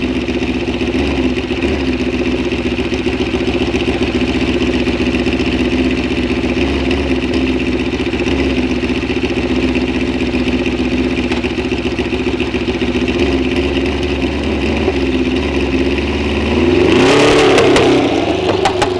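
An engine idling steadily, then revved once near the end, its pitch rising and falling back to idle.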